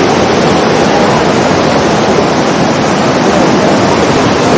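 Waterfall's falling water, a loud steady rushing noise close to the microphone.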